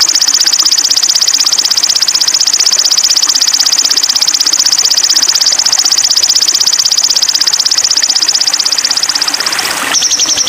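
Sogon bird song from a masteran recording: a loud, high-pitched, very fast buzzing trill held unbroken for nearly ten seconds. It breaks off near the end and a new trill starts at once.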